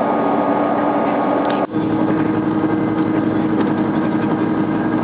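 Diesel train running, heard from inside the carriage: a steady engine and running drone. Just under two seconds in it cuts out for an instant and comes back with a steadier hum.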